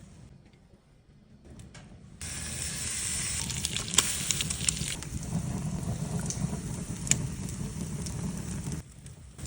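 Food sizzling on a hot grill: a steady hiss with scattered pops and crackles. It starts abruptly about two seconds in, after a quiet stretch, and drops away suddenly near the end.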